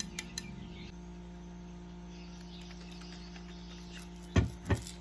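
Eating-table handling sounds: two light clicks early on, then two dull thumps about a third of a second apart near the end, over a steady electrical hum.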